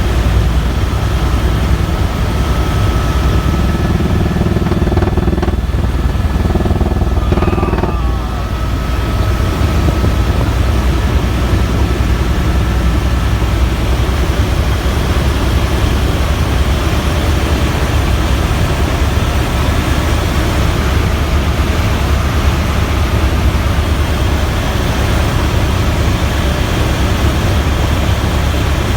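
Helicopter rotor and engine noise heard on board in flight: a loud, steady low drone, with a faint steady whine above it through roughly the first half.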